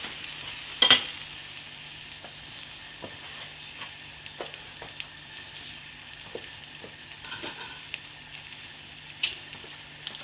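Beef quarter-pounder burger sizzling on a hot griddle: a steady frying hiss with faint scattered pops. A sharp click about a second in and another near the end.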